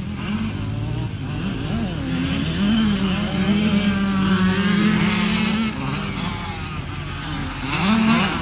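Motocross dirt bike engines revving on a track, several overlapping, their pitch rising and falling, with one engine held at a steady pitch for a few seconds mid-way.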